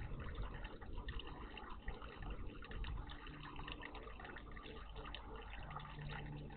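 Water splashing and trickling steadily in a garden bird bath, with many small drips and splashes.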